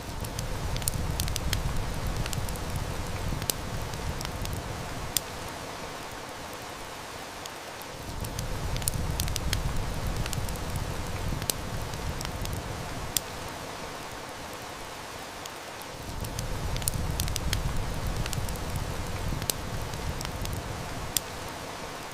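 Steady rain hiss mixed with a wood fire crackling, with frequent sharp snaps and pops. A low rumble swells in for about five seconds and fades, three times at even intervals of about eight seconds.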